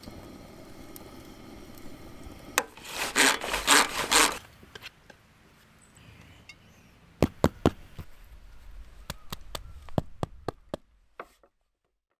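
Wood being worked: a cluster of about four loud rasping strokes a few seconds in, then a run of about a dozen sharp knocks or clicks, before the sound cuts off.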